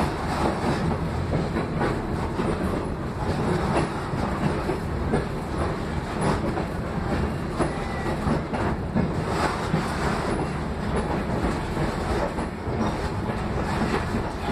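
Railroad caboose rolling slowly along the track, heard from on board: a steady rumble of the wheels on the rails with scattered clicks.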